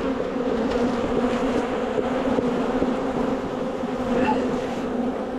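Swarm of honeybees buzzing around an open hive in a steady, loud drone. The bees are agitated and defensive: they are mad.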